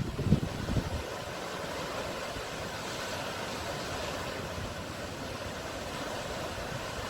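Sea waves washing on the shore as a steady rush of surf, with wind buffeting the microphone in low thumps during the first second.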